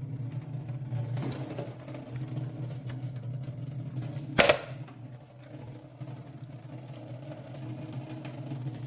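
A steady low machine hum with one sharp knock about four and a half seconds in.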